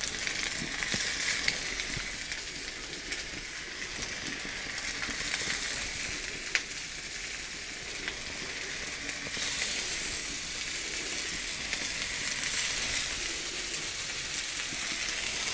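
Slices of potato dumpling dough rolled with bacon sizzling in rapeseed oil on a hot steel plancha, a steady frying hiss with a few light clicks as more slices are laid down.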